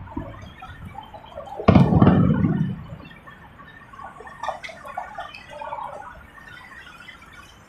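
Firework going off with a sharp bang about two seconds in and a rumbling tail lasting about a second, followed by scattered fainter pops.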